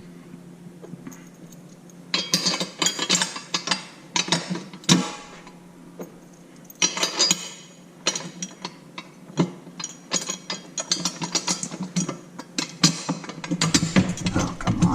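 Metal parts of a motorcycle wheel chock stand clinking and rattling in irregular bursts as it is bolted together, over a faint low hum.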